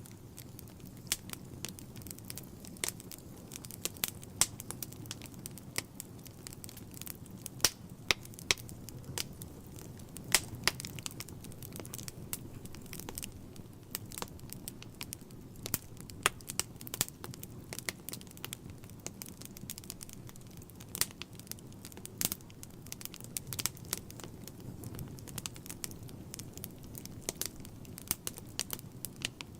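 Wood fire burning in a fireplace: a steady low rumble with irregular crackles and sharp pops, a few of them louder than the rest.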